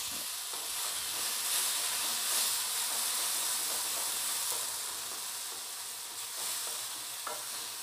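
Boiled red cowpeas and curry leaves sizzling steadily in oil in a nonstick kadai on low heat, stirred now and then with a wooden spatula.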